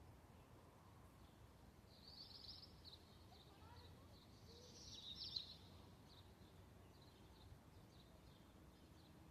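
Near silence with faint bird chirps: two short bursts of high, rapid chirping about two and five seconds in, then scattered faint chirps.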